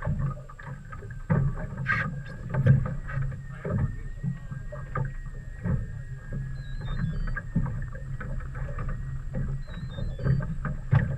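Water slapping against a small boat, with irregular knocks and a steady low rumble.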